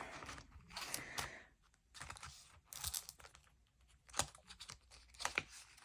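Banknotes and paper cash envelopes being handled: scattered, quiet paper rustling with a few sharp clicks.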